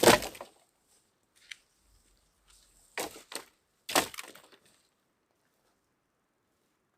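Three short bursts of crunching and cracking: the loudest right at the start, then two more about three and four seconds in.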